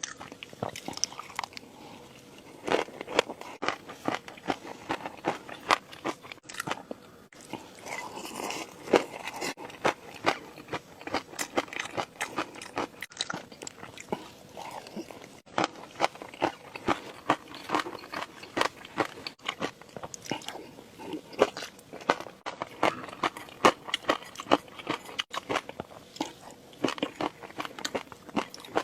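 Close-miked eating for ASMR: a person biting and chewing food, with many crisp crunches and wet crackles coming irregularly, several a second.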